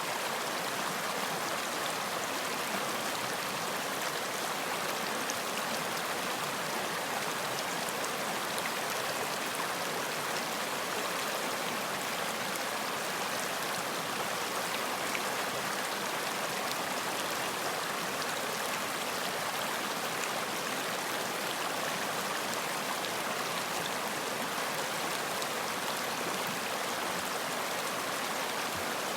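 Running water of a stream flowing steadily over rocks, a continuous even splashing and gurgling with no change.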